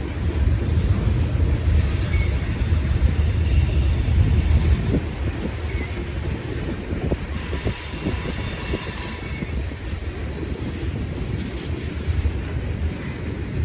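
A train rolling past with a steady low rumble, louder in the first half, and high-pitched wheel squeal that comes and goes, strongest a little past the middle.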